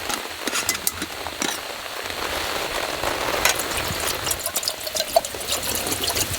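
Heavy rain pattering on a tarp shelter overhead: a dense, steady hiss scattered with sharp drop ticks.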